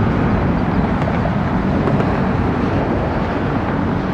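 Departing jet airliner's engines at takeoff thrust: a loud, steady rumble as it climbs out.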